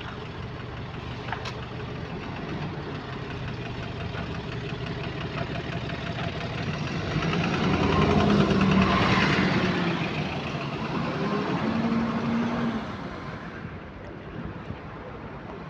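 Bus engine running with a subtle connecting-rod knock. It grows louder about seven seconds in and eases off again after about thirteen seconds.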